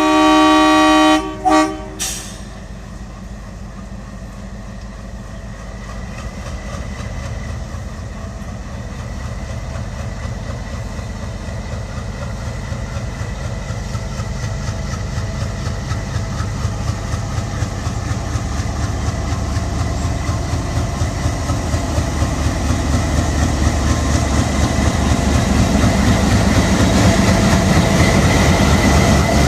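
Diesel locomotive horn sounding one long blast and a short second one, then the approaching train rumbling in, its wheels clicking rhythmically over the rail joints and growing steadily louder as it nears.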